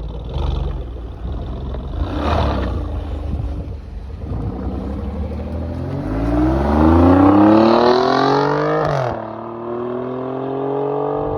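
Alfa Romeo Giulia Quadrifoglio's twin-turbo V6 accelerating through the gears: a rough low drone, then revs climbing for about three seconds, a sudden drop in pitch at an upshift about nine seconds in, and revs climbing again.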